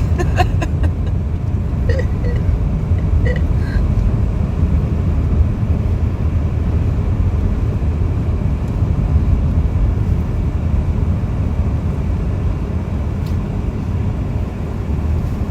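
Steady low rumble of a car being driven, heard from inside the cabin, with a few faint clicks in the first few seconds.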